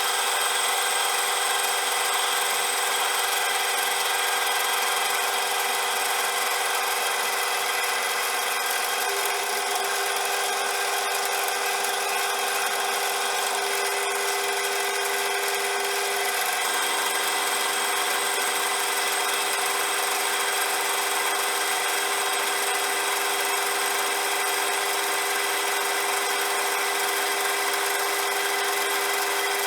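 CJM360 metal lathe running steadily, its motor and gears giving several steady tones over a hiss. The tones shift slightly twice, about a third and about halfway through.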